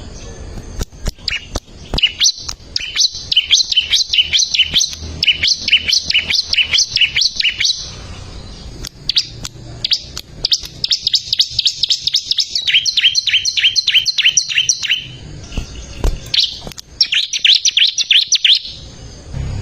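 Ciblek (prinia) singing: long, fast runs of sharp, high repeated chirps, each run lasting several seconds with short pauses between.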